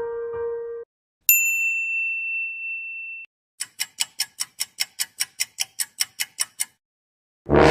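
A single bright bell ding rings out and fades over about two seconds, followed by a run of about fifteen sharp, evenly spaced clicks, about five a second. A piano chord fades out at the start, and a loud noisy sound cuts in at the very end.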